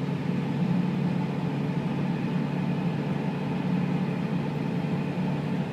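Steady low hum of a car's engine and road noise.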